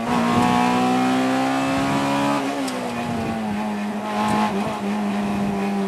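Honda Civic EG6's B18 VTEC four-cylinder engine heard from inside the cabin at high revs, its pitch climbing slightly and then dropping about two and a half seconds in before holding steady at a lower note.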